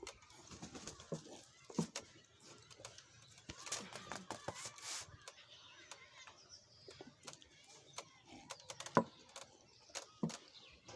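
Scattered small clicks, knocks and rustles from people eating, with a few faint vocal sounds.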